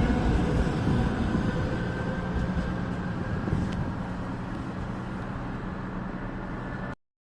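Train running past and fading away: a low rumble with a steady hum that slowly gets quieter, cutting off suddenly near the end.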